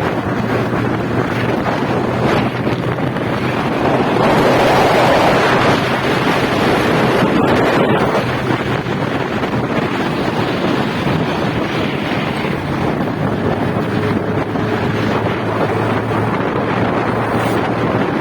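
Wind rushing over the microphone of a moving motorcycle, with the engine's steady drone underneath. The wind noise swells about four seconds in and eases after about eight seconds.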